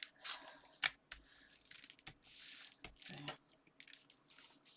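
Paper and card pieces being handled and slid about on a craft table: a few short rustles, a sharp tap just under a second in, and a longer rustle a couple of seconds later.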